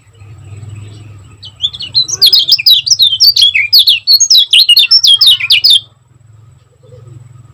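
Kecial kuning, a Lombok white-eye, singing a fast, dense run of high chirps for about four seconds, starting about a second and a half in. A low hum runs underneath.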